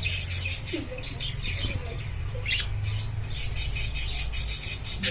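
Pet budgerigars chattering in rapid, high, scratchy chirps and squawks, with a short lull in the middle, over a steady low hum.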